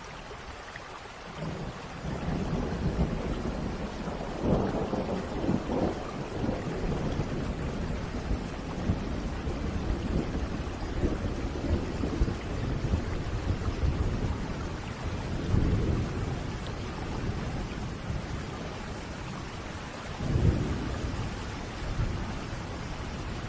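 Steady rain with thunder rolling in about a second and a half in. The thunder keeps rumbling low and swells into several louder peaks, the strongest a few seconds before the end.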